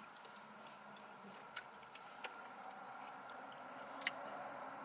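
Faint eating sounds: quiet chewing of a mouthful of macaroni and cheese, with a few short sharp clicks about a second and a half, two and four seconds in.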